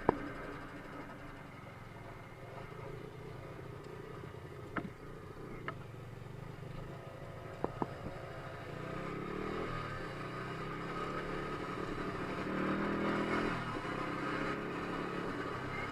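Dirt bike engine running, louder and rising and falling in pitch as it revs in the second half. A few sharp knocks come about five and eight seconds in.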